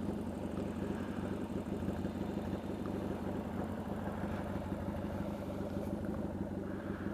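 Yamaha XS650 air-cooled parallel-twin engine idling steadily through cocktail shaker exhaust pipes.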